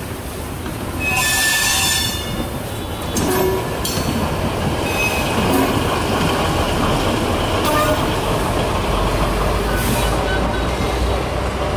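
A train rolling on the rails with loud running noise, its wheels squealing high-pitched about a second in and briefly again several times afterwards.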